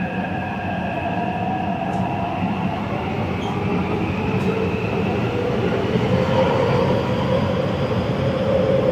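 Taipei Metro Zhonghe–Xinlu line train running on its rails, a steady rumble with a motor whine that drifts in pitch, rising and growing slightly louder in the second half.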